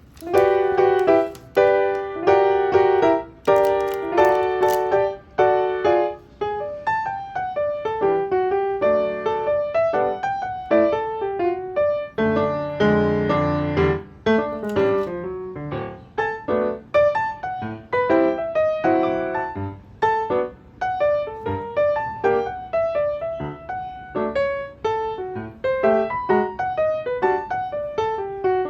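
Background piano music: a gentle melody with chords, notes struck one after another.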